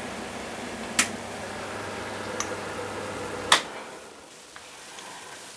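Sharp clinks of a serving utensil on cookware as pasta is dished up: one about a second in, a faint one, then a louder one about three and a half seconds in. A steady background hum stops at the last clink.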